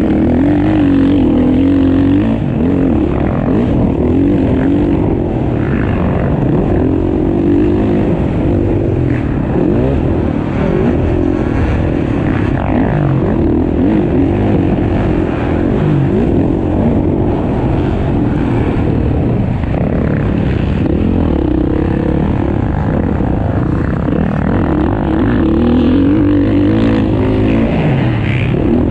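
Motocross bikes racing on a dirt track, their engines revving up and down continuously as riders accelerate and shift.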